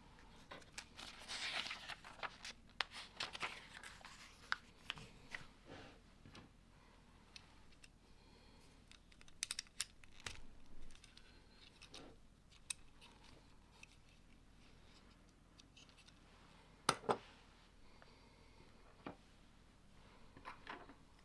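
Lego bricks being handled and pressed together: scattered sharp plastic clicks mixed with rustling, busiest in the first few seconds, with two louder clicks close together about seventeen seconds in.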